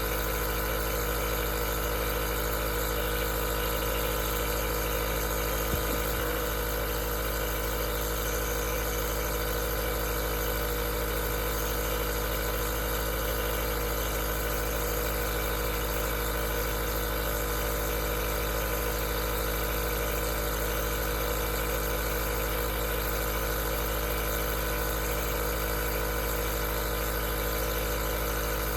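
Aerosol nebulizer's compressor running steadily: a constant motor hum with an even hiss, and a single small click about six seconds in.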